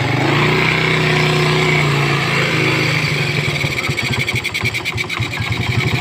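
Motorcycle engine running just after being brought back to life from eight years of storage. It holds a steady higher speed at first, then about three and a half seconds in drops to a slow idle with each firing pulse distinctly audible.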